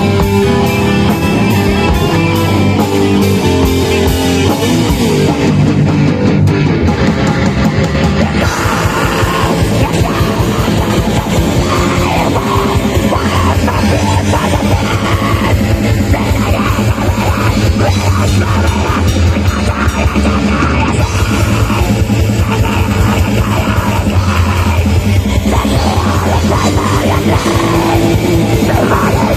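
A metal band playing live, with loud distorted electric guitars and a drum kit. The music moves into a denser, heavier section about eight seconds in.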